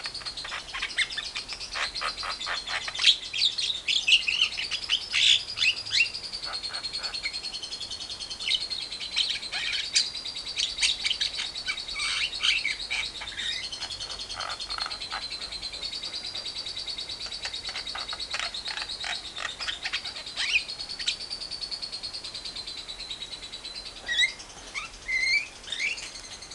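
A lovebird's long, unbroken high trill (ngekek panjang), with a Javan myna chattering in short, harsh calls over it. Near the end the trill drops and a few rising chirps come through.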